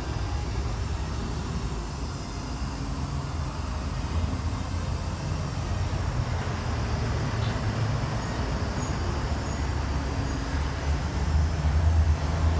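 Ford 390 V8 of a 1963 Galaxie idling through a custom exhaust with an X-pipe and Flowmaster mufflers: a steady low rumble that grows somewhat louder near the end.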